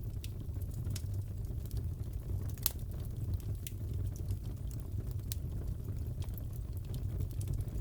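Wood fire crackling in a fireplace: a steady low rumble of the flames with scattered sharp pops and snaps, the loudest about two and a half seconds in.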